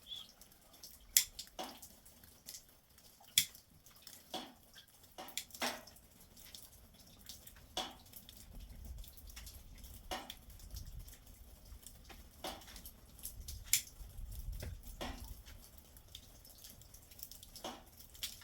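Irregular sharp clicks and small knocks, some much louder than others, spaced a second or two apart over a faint low rumble.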